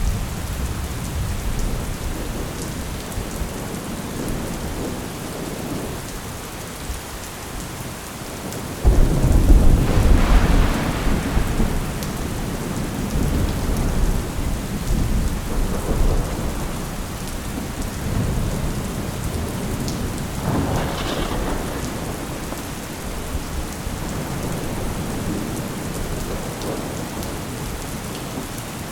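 Thunderstorm: steady rain with rolling thunder. A loud thunderclap breaks suddenly about nine seconds in and rumbles on for several seconds, with fainter rumbles later.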